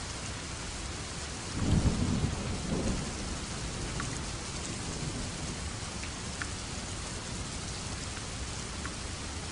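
Steady rain falling, with a clap of thunder about a second and a half in that rumbles low and fades within a couple of seconds; a few sharp drips stand out from the rain.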